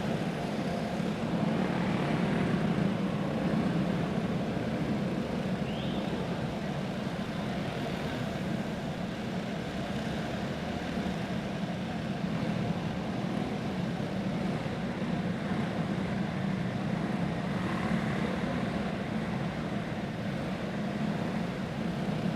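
Dirt-track racing karts' small single-cylinder clone engines running together in a steady drone as the field circulates the oval.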